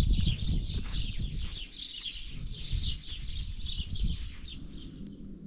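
Small birds chirping rapidly and over and over, dying away near the end, with low thuds underneath.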